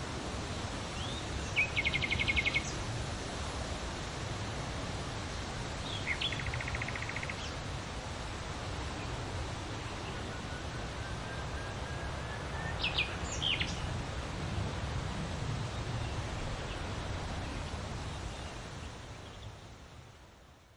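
Outdoor ambience: a steady hiss of background noise with small birds calling over it. There are two short rapid trills in the first several seconds and a few quick chirps past the middle, and the whole fades out near the end.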